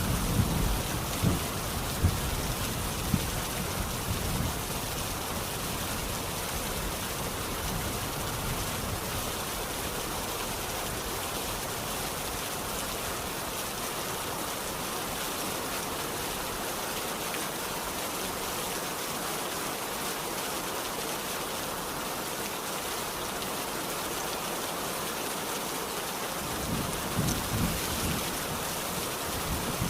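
Steady rain falling, an even hiss throughout, with low rumbles of thunder at the start and again near the end.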